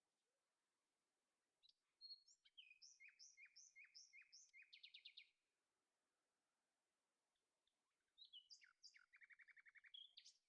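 A songbird singing two faint phrases of chirps and quick trills, each about three seconds long, with a pause of a few seconds between them.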